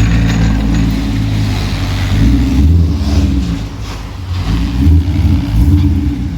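V8 car engine running, with the revs raised several times in short swells.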